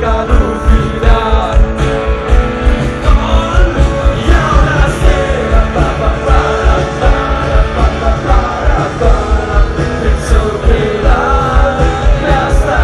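Rock band playing live with a singer over a steady, heavy drum beat; loud.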